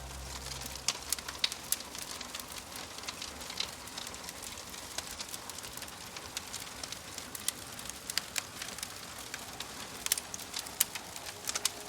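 Log fire crackling with irregular sharp pops, some in quick little clusters, over a steady hiss of rain.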